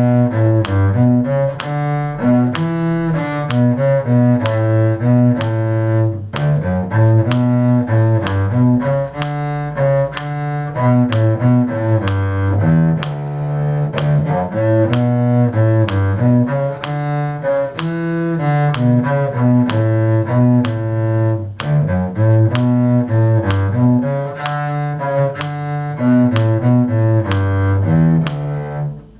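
A cello played with the bow, running through a tune counted in six. The note changes are smooth and the playing pauses briefly about six seconds in and again about twenty-one seconds in.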